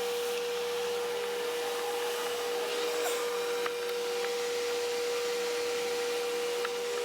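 A steady machine whine holding one pitch, with a few faint clicks.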